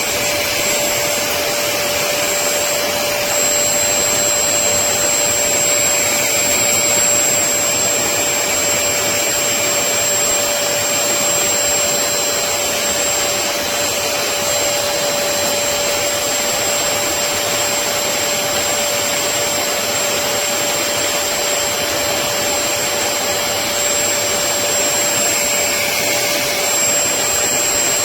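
Portable upholstery wet vacuum (HAUSHOF StainZapper, 400 W) running steadily: a constant motor hiss with a steady whine.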